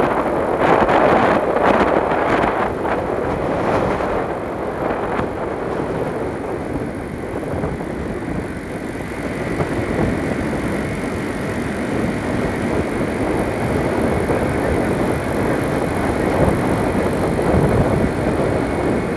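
Steady rumble of road and wind noise from a moving vehicle, with no engine note standing out. A few faint knocks come in the first few seconds.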